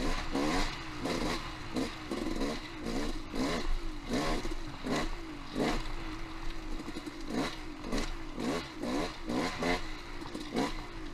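Dirt bike engine revving up and down as it is ridden along a trail, with frequent short knocks and clatter throughout.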